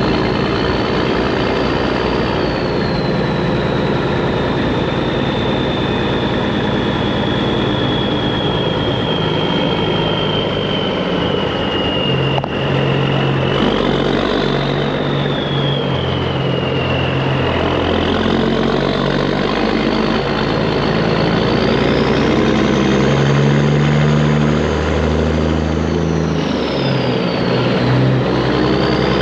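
Straight-piped Peterbilt 389 semi truck running loud and steady, its engine note stepping up and down in pitch several times. A high whistle rises and falls over it throughout.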